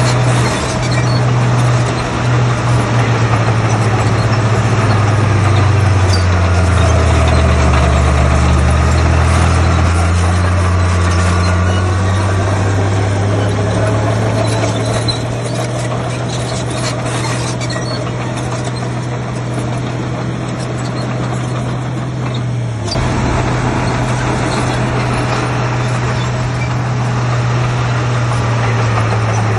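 Heavy diesel earthmoving machinery running steadily; the engine note sags lower for a few seconds about six seconds in, then climbs back. There is an abrupt break in the sound about three-quarters of the way through.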